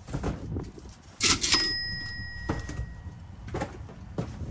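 A cash-register "ka-ching" sound effect about a second in, its bell ringing on and fading over a second or two. Around it, cardboard boxes are lifted, shuffled and set down with dull knocks and scuffs.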